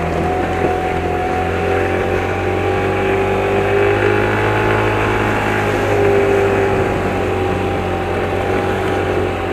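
Yamaha R1 Mini mini motorcycle engine running steadily, its pitch rising a little around the middle and settling back.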